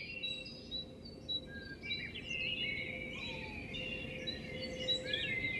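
Songbirds chirping and singing in quick, overlapping phrases over a low, steady background rumble of outdoor noise.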